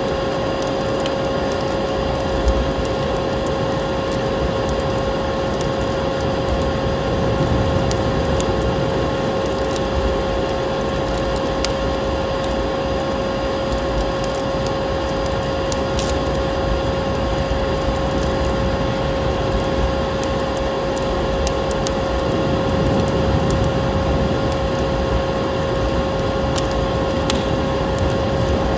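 Wood fire crackling with scattered sharp pops, layered over a steady vacuum cleaner drone with a constant motor hum.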